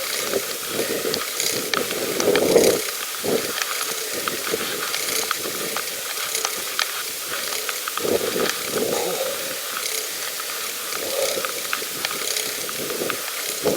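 Bicycle freewheel ticking rapidly as the bike coasts, over a steady hiss.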